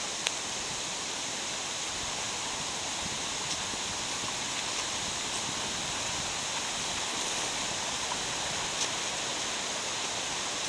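Mountain stream rushing over rocks in a steady, even wash of water noise, with a single sharp click near the start.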